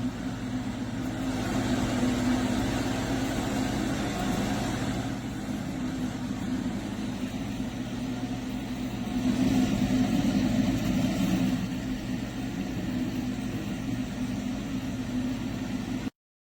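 HG Power 6-inch metal wall exhaust fan running: a steady low motor hum under the rush of moving air, swelling a little at times.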